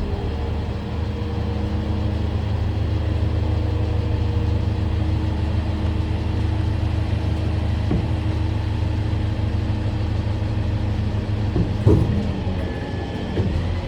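Aircraft catering truck's engine running steadily with the PTO-driven hydraulics engaged, a low even drone, as the lifted box is moved by its controls. A couple of short knocks come about 8 and 12 seconds in.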